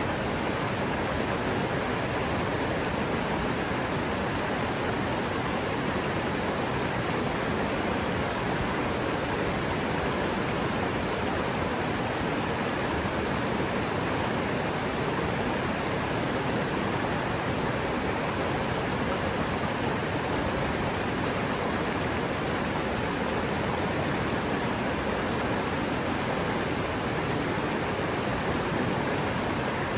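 River water running, a steady, unchanging rush of flowing water.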